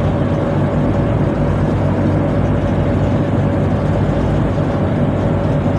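Steady, loud drone of a tugboat's engine machinery, a deep low hum with a steady whine above it, unchanging throughout.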